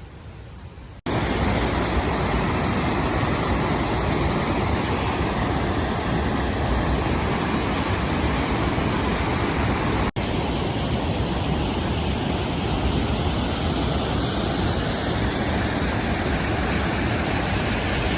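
Loud, steady rush of creek water tumbling over granite boulders. It starts abruptly about a second in, with a brief break near the middle.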